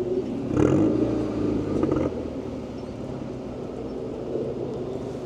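Drag-racing cars, a Nissan GT-R against a Mercedes-AMG 43, launching. Their engines rev hard and rise in pitch about half a second in, are loudest for about a second and a half, then settle to a steadier drone as the cars pull away.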